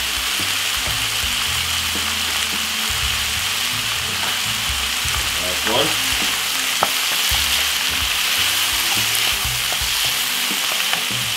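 Diced chicken breast, onion and tomato sizzling steadily in hot olive oil in a nonstick frying pan while being stirred with a wooden spoon, with a few sharp knocks of the spoon against the pan.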